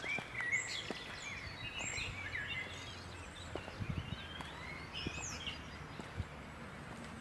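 Several small songbirds singing and chirping over one another, with short quick whistles and warbles, over a steady low background rumble.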